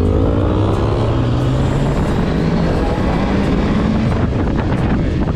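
Motorcycle engine under way, its pitch rising for about the first second as it speeds up, then running steadily, with wind rush over it.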